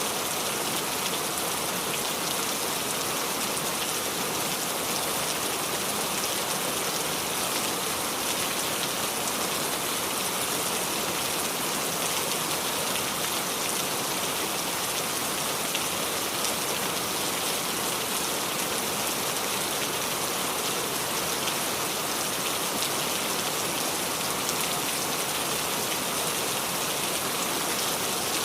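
Steady rain falling on the leaves of a small tree, a dense even patter of fine drops.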